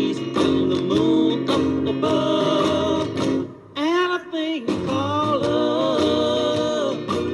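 1960s pop record: a male voice singing with sliding notes over guitar and a band with a steady beat. The band drops back briefly about three and a half seconds in, just before the voice comes in.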